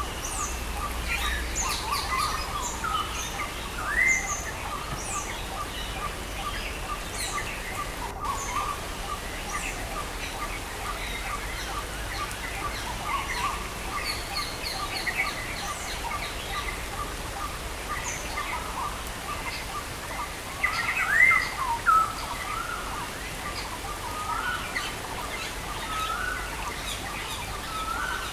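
Several songbirds chirping and calling over a steady hiss of rain. A fast run of short repeated notes, about four a second, goes on through the first half, and the loudest calls are quick rising chirps a few seconds in and again near the two-thirds mark.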